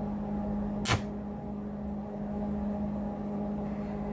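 Stick (arc) welder humming steadily, with one sharp click about a second in as the electrode touches the work in an attempt to strike the arc.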